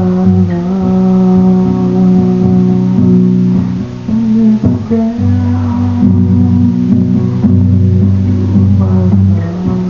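A song played on plucked guitar over a bass line, with sustained notes and a steady low end.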